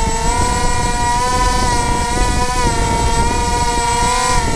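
Twin 2800KV brushless electric motors driving pusher propellers, running at a steady high throttle with a loud, steady whine that wavers slightly, then spinning down quickly as the throttle is cut at the very end.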